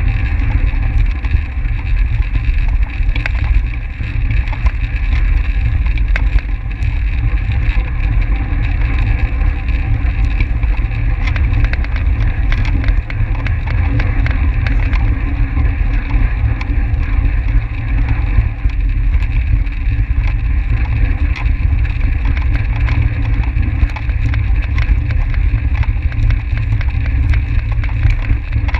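Wind buffeting a bike-mounted camera's microphone on a track bike racing at speed: a steady heavy rumble with a constant higher hum from the tyres and drivetrain and scattered light ticks.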